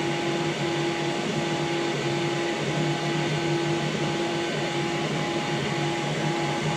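Qidi X-Max 3D printer printing a test part: its stepper motors whine in two steady tones that break off briefly every half second or so as the moves change, over a steady fan hum.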